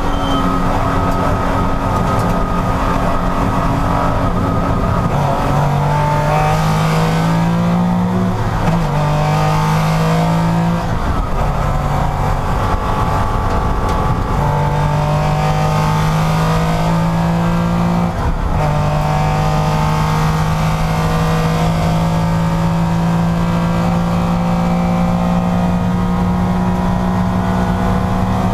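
Porsche race car engine running hard, its note held fairly steady with several short breaks where it drops and picks up again, the clearest about eight and eighteen seconds in.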